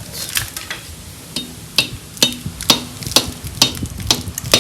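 Repeated hammer taps on metal, about two a second, each with a short ring, knocking at the VW Type 4 engine's cylinder head to break it loose after its bolts have been undone.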